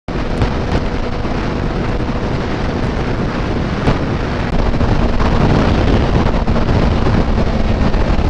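Wind rushing over the microphone of a moving motorcycle, with a steady engine hum underneath; it gets louder about four and a half seconds in.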